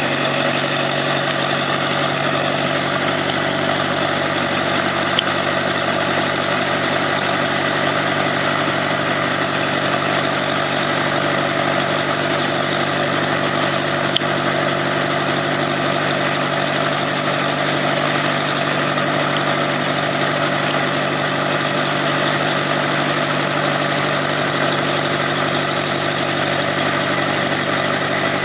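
Robinson R22 helicopter in flight: its piston engine and rotor running in a steady drone that does not change in pitch, with two brief clicks, about five and fourteen seconds in.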